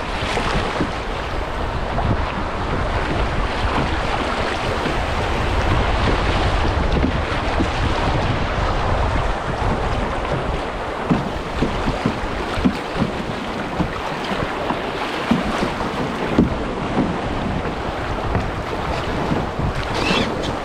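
Rushing river water around a canoe, with wind buffeting the microphone. Short knocks or splashes come in the second half.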